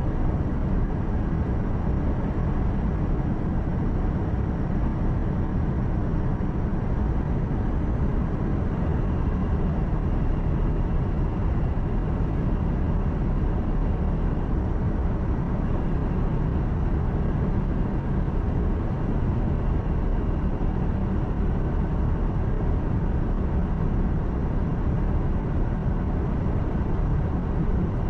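Steady low drone of a heavy truck cruising, engine and tyre noise heard from inside the cab.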